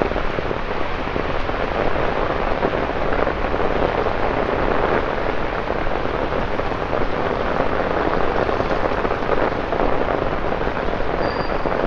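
Steady rain falling on wet paving: a dense, even patter with no let-up.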